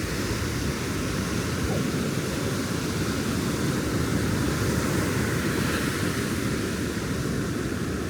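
Ocean surf washing onto the beach, a continuous rushing noise heavy in the low end, swelling slightly mid-way.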